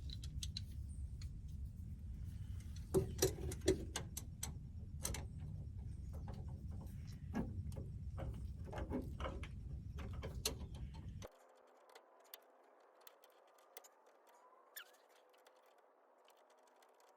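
Scattered clicks and light metal clinks of hand tools being worked, over a low steady rumble that cuts off abruptly about eleven seconds in, leaving only faint occasional ticks.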